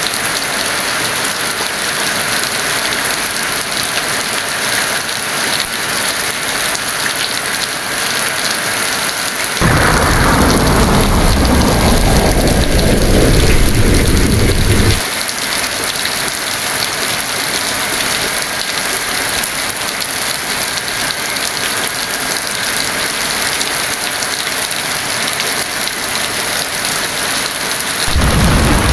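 Heavy rain falling steadily. About ten seconds in, a roll of thunder rumbles for some five seconds, fading downward in pitch and then stopping abruptly, and another thunderclap begins right at the end.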